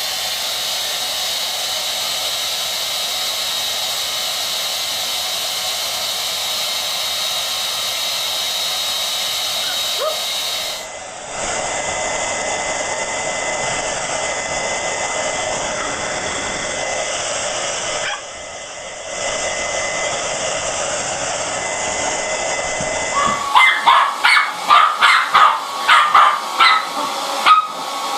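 Electric hair dryer running with a steady hiss and thin whine, changing pitch at cuts between clips. In the last few seconds a dog barks rapidly and repeatedly over the dryer.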